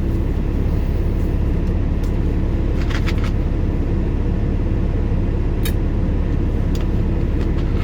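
Steady low rumble of an idling vehicle heard from inside the cab, with a couple of faint clicks about three and six seconds in.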